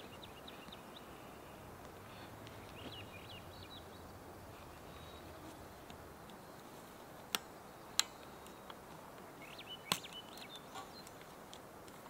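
Faint outdoor ambience with small birds chirping and trilling now and then. Three sharp clicks come about two-thirds of the way in, within about three seconds of each other.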